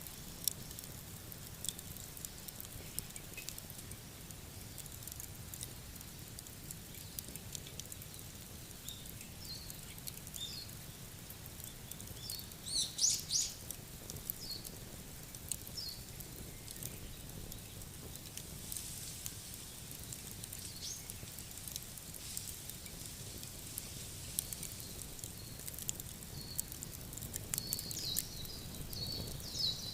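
Campfire crackling with scattered small pops throughout, and birds chirping now and then, a bunch of calls about halfway through and more near the end.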